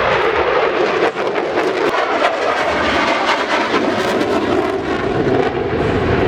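Loud, continuous jet aircraft noise from a fighter jet flying overhead, with a crackling texture.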